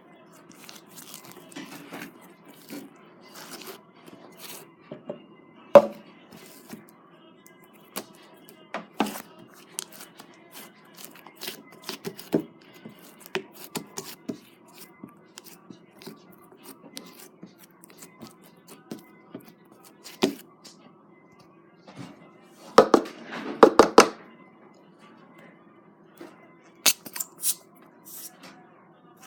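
Slime being handled: a run of small, sticky clicks and pops, with a louder spell of squishing late on.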